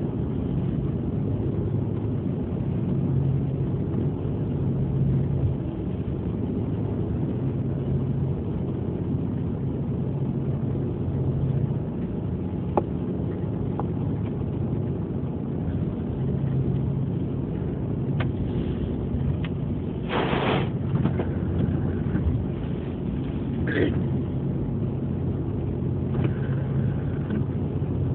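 A ferry's engines drone steadily as a low hum that swells and fades every few seconds over a constant rumble. A short burst of noise comes about twenty seconds in, with a smaller one a few seconds later.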